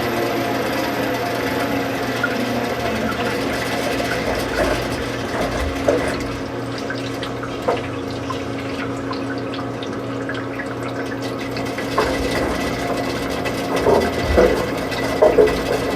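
Washing machine running: water flowing in or being pumped out over a steady machine hum, with a few knocks near the end.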